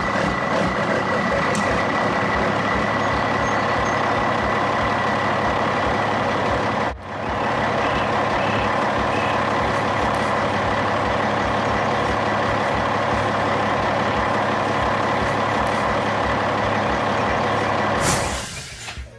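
Heavy truck or construction machinery engine running loud and steady, with a brief break about a third of the way in and a short air-brake hiss near the end.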